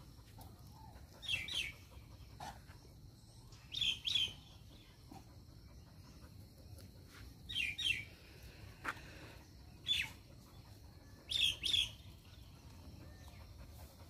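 A bird calling in short pairs of quick, high chirps, repeated every two to four seconds, five or six times.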